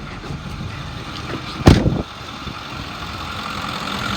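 2010 Ford F-550's 6.4 L Power Stroke V8 diesel idling steadily, with one sharp, loud thump a little under two seconds in.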